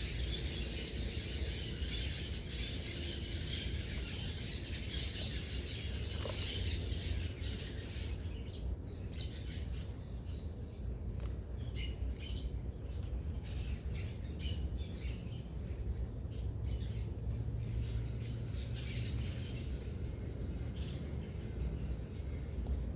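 Mixed small birds calling at a feeder: a dense chatter of many birds for the first several seconds, thinning to scattered short chirps and squawks, over a steady low rumble.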